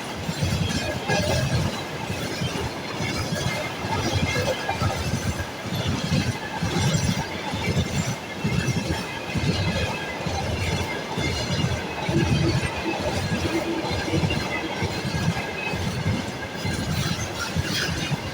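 Freight train of tank cars rolling past on the rails, its wheels sounding as a continuous run of low, uneven thumps over a steady rumble.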